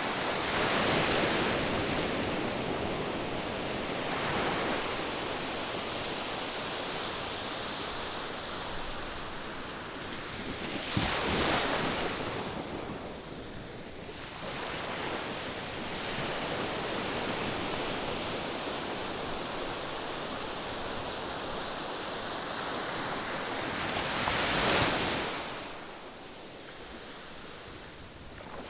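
Surf on a sandy beach: a steady wash of waves with breakers swelling and crashing about a second in, around eleven seconds and around twenty-five seconds, with some wind on the microphone.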